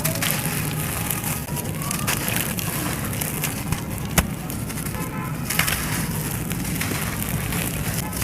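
Dry, brittle material crumbling and crushing with dense, irregular crackles and snaps over a steady low hum, and one sharp crack about four seconds in.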